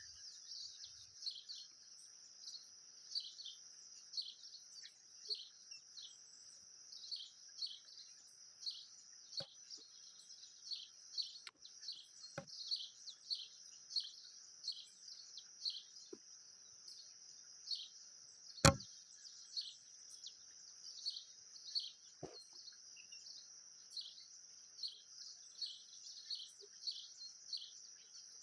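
A small bird calling over and over with short downslurred chirps, more than one a second, over a steady high-pitched hiss. A single sharp click about two-thirds of the way through.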